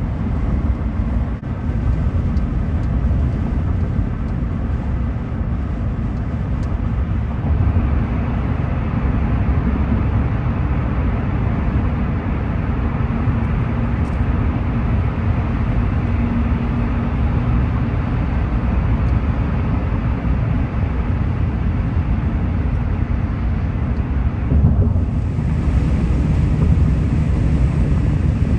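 A car running at road speed, giving a steady low rumble of road and engine noise.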